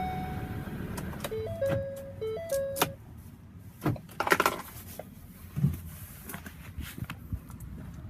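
Ford Transit 350's Power Stroke diesel engine running, with a repeating dashboard warning chime. About a second and a half in, a short stepped electronic chime tune plays. The engine rumble falls away about three seconds in, followed by a few clicks and knocks.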